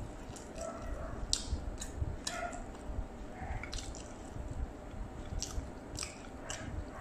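Wet chewing and lip smacking of a mouthful of fried jengkol (dogfruit), with short squelching clicks at an uneven pace.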